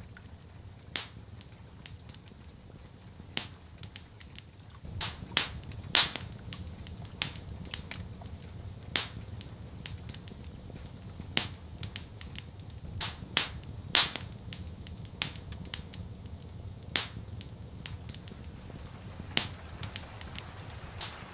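Wood fire in a fireplace crackling, with irregular sharp pops and snaps over a low steady rumble; the pops come more often and louder from about five seconds in.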